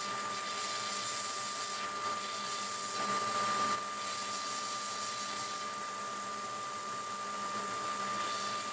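Abrasive blast cabinet in use: a steady hiss of compressed air and grit from the blasting gun, with a constant hum from the cabinet's extractor beneath it.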